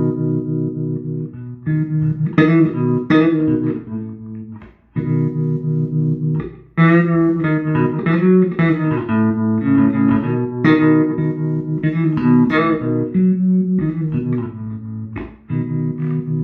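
Electric bass guitar played through a 1973 Fender Twin Reverb Silverface combo with 1978 CTS Special Design speakers, on the vibrato channel with reverb: a string of plucked notes, their volume pulsing quickly from the amp's vibrato.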